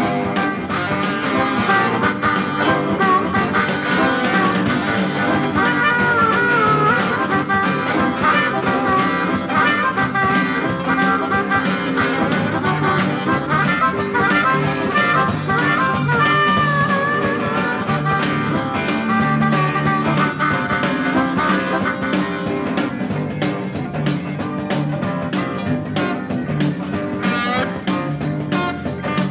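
Instrumental blues-rock passage: a harmonica plays a lead with bent, wavering notes over electric guitar, bass and drums keeping a steady beat.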